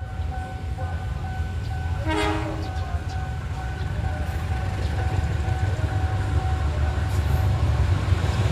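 CC 203 diesel-electric locomotive hauling a parcel train as it approaches, its engine rumble growing steadily louder. A short horn blast sounds about two seconds in.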